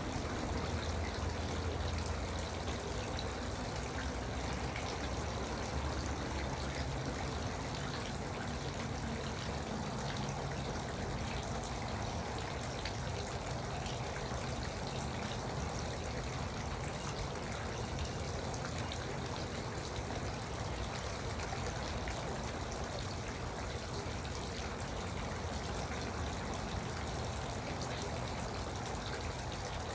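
Garden water fountain running steadily, water trickling and splashing into its basin without a break.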